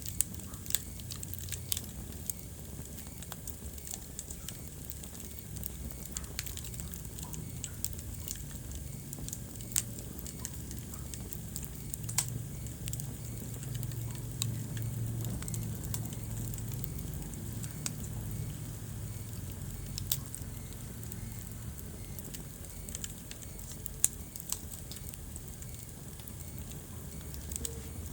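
Wood fire burning in a fireplace: a steady low rumble of flame with sharp, irregular crackles and pops from the burning logs, one louder pop near the end.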